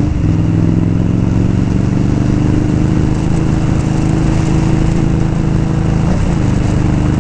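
Indian Scout motorcycle's V-twin engine running under way at steady speed, with a brief change in engine pitch about six seconds in.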